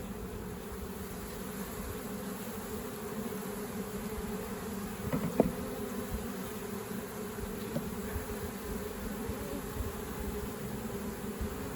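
Honeybees from an opened colony buzzing in a steady low hum, with a single sharp knock about five seconds in.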